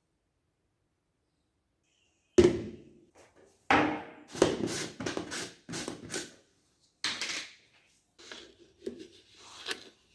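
Objects being handled: a sharp knock about two and a half seconds in, then a run of short scrapes and clatters.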